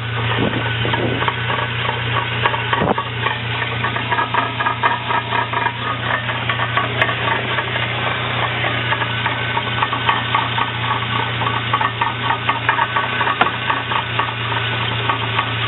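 Engine running with the transmission held in second gear and the axles spinning: a steady hum with a fast rattling knock over it, busier in the second half. It is the weird transmission noise that the owner cannot explain.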